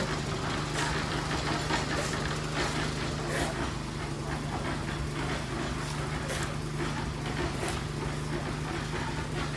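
An engine idling steadily with a low, even hum, with scattered short clicks or knocks over it.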